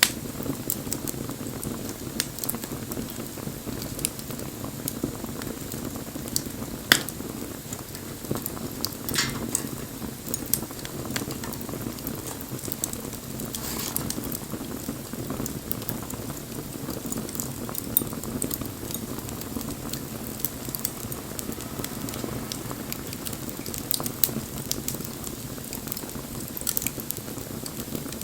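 Wood bonfire burning: a steady low rustle of flame with frequent small crackles and occasional louder pops.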